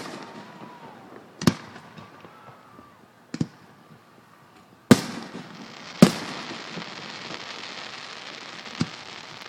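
Aerial firework shells bursting close overhead: five sharp bangs a second or two apart, the one about six seconds in followed by a long crackle.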